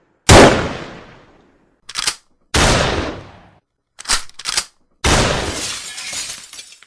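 Gun sound effects: three loud single gunshots, each followed by a long echoing decay, with shorter sharp double cracks between them.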